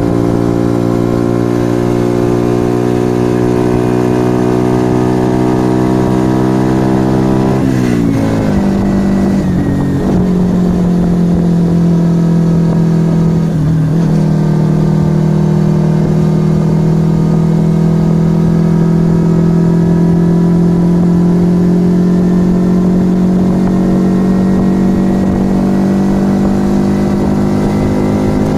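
A 1997 Yamaha XV125 Virago's small V-twin engine running through an aftermarket Turbo Kit exhaust while riding. The engine note climbs slowly, falls sharply about eight seconds in, dips briefly twice more soon after, then climbs slowly again.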